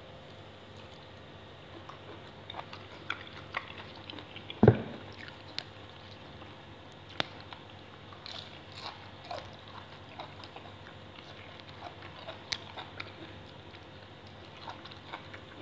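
Person chewing raw shrimp and fresh leafy greens close to the microphone: scattered wet crunches and clicks, with one loud thump about five seconds in.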